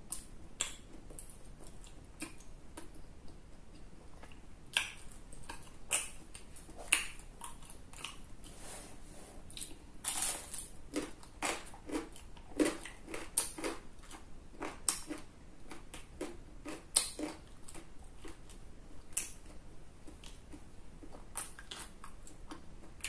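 A person biting into and chewing crispy food close to the microphone: irregular sharp crunches and crackles, thickest around the middle.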